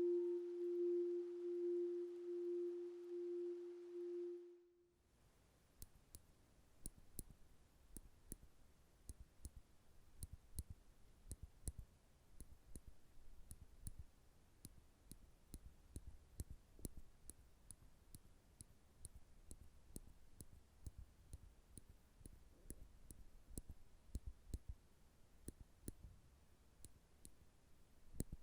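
A steady, gently pulsing tone that stops about four and a half seconds in. It is followed by close-miked nail clippers giving many small, quick, irregular clicks.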